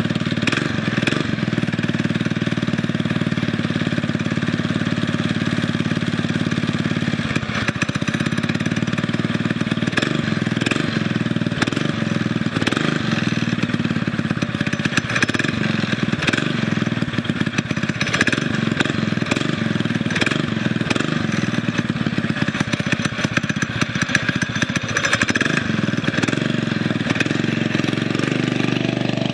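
Predator 6.5 hp single-cylinder engine on a homemade mini bike, running through its new custom exhaust pipe. It runs steadily for about seven seconds, then the beat turns uneven as the speed varies. It has a deep thumping exhaust note.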